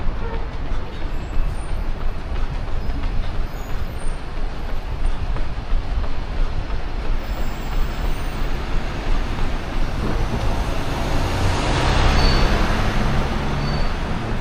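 Road traffic with a steady low rumble, and a vehicle passing close, swelling to its loudest about twelve seconds in and then fading.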